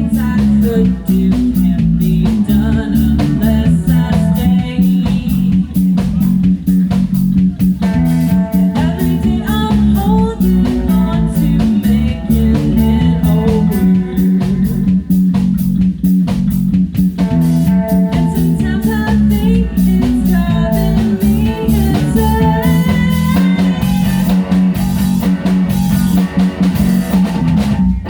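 A live rock band playing, with guitars, bass guitar and a drum kit keeping a steady beat.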